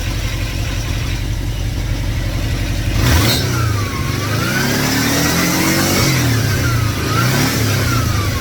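2110cc air-cooled VW flat-four on dual Empi 44 IDF carburetors running steadily, then about three seconds in it is revved: engine speed climbs slowly, eases off, and is raised and let down again near the end.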